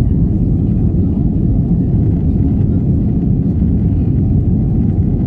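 Airbus A320 cabin noise with the engines at high thrust: a steady, loud, low rumble of engine and airflow that holds even throughout.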